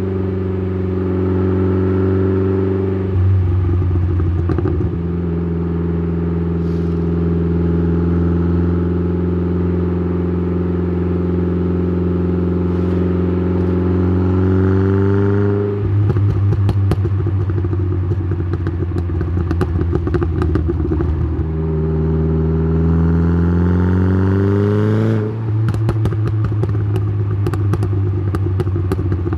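Exhaust of a tuned, turbocharged Saab 9-3 with a B204 2.0-litre four-cylinder, heard right at the tailpipe through its 3-inch downpipe and Simons muffler. The engine pulls with its pitch climbing, then drops off throttle into a spell of rapid crackling, twice, about halfway through and again near the end.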